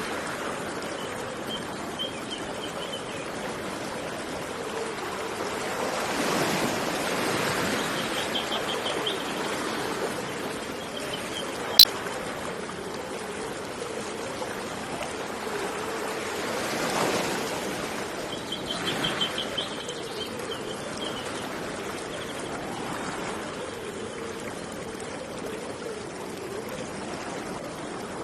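Steady rush of flowing water, swelling louder a couple of times, with a small bird's short trilled calls three times. A single sharp click sounds about twelve seconds in.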